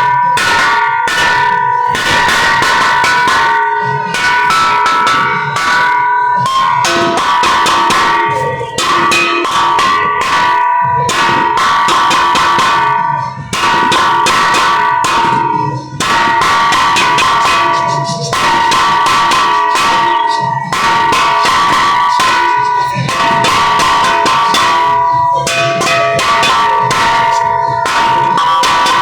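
A set of bells of several pitches struck rapidly and continuously in a dense peal, the ringing tones overlapping. Brief gaps come about halfway through.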